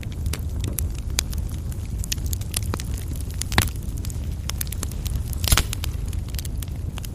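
Coal fire burning in a fireplace, crackling with frequent small pops over a steady low rumble, and two louder pops, about three and a half and five and a half seconds in.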